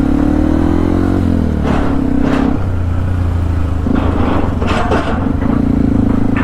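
Yamaha WR155R's single-cylinder engine running under way, its pitch rising for about a second, then dropping and stepping again as gears change, with a few short clattering knocks.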